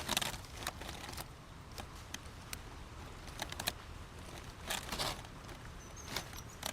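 Scattered short clicks and brief rustling or crinkling noises at irregular intervals, with the loudest rustle at the very start and another just before 5 seconds in.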